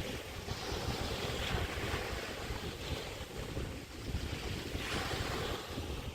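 Small Chesapeake Bay waves breaking and washing up the beach, surging twice, about half a second in and again about five seconds in. Wind rumbles on the microphone throughout.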